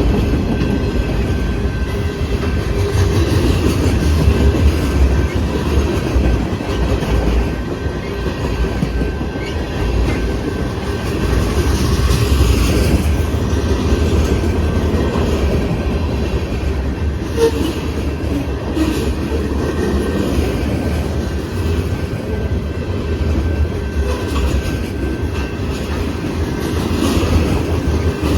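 Train rolling past: a steady low rumble of the cars, with wheels clicking over rail joints and a faint thin steady squeal above it.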